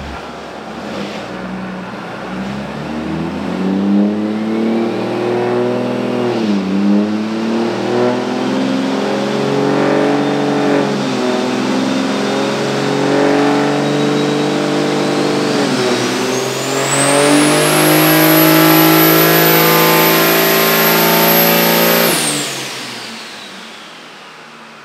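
2021 Cummins 6.7 L inline-six diesel at full throttle on a chassis dyno, its engine note climbing with three brief dips in pitch. A 72 mm single turbocharger whistles over it, rising to a high steady whine. About 22 seconds in the throttle lifts, and the engine and turbo wind down.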